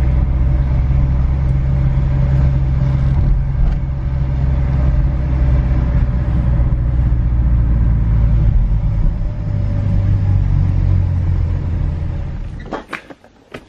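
Car driving: a loud, steady low engine and road hum, its pitch shifting about nine seconds in before it fades out near the end.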